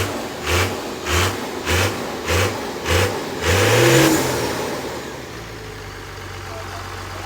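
Second-generation Dodge Ram's 24-valve Cummins inline-six diesel cranking slowly on a weak battery, the starter turning it over in even chugs, then firing about three and a half seconds in, revving up briefly and settling into a steady idle.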